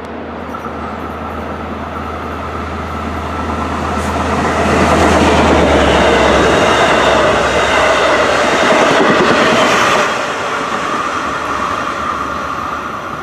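Long Island Rail Road train passing close by: the noise builds, is loudest for about five seconds, then drops off sharply about ten seconds in.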